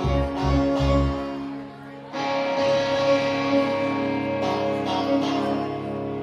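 Live rock band playing, with held electric guitar chords over bass notes. The sound dips briefly about two seconds in and then starts again.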